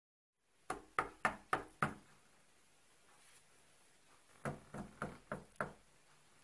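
Knocking on a door: a run of about five quick knocks, then about two and a half seconds later another run of about five.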